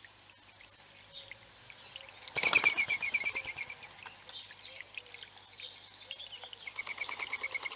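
Small songbirds calling in woodland: scattered chirps, with a loud rapid trill of evenly repeated notes about two and a half seconds in, opening with a sudden noisy burst close to the microphone, and a second, softer trill near the end.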